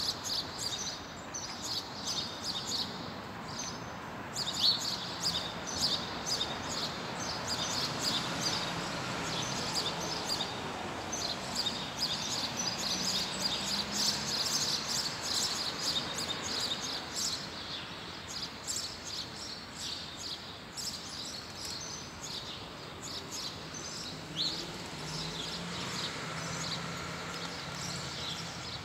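Small songbirds chirping repeatedly over a steady background of distant city noise, with a faint low hum that rises and falls in pitch around the middle.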